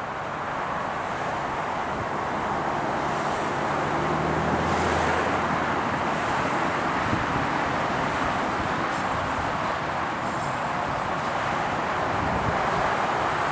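GO Transit train moving through the station: a steady rushing rumble that slowly grows louder, with a few brief faint high squeaks.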